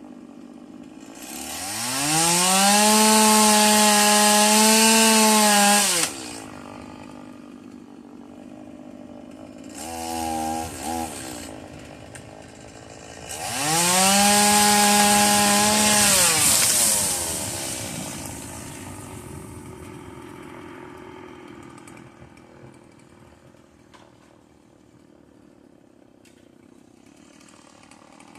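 Stihl two-stroke chainsaw revved to full throttle twice, each run held for a few seconds. The first drops off abruptly to idle; after a brief blip of throttle between, the second winds down slowly. The saw then idles quietly.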